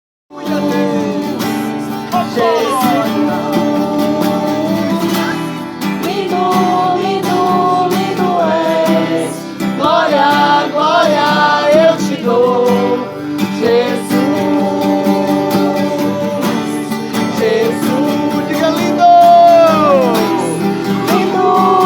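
A Christian worship song: a voice singing over acoustic guitar.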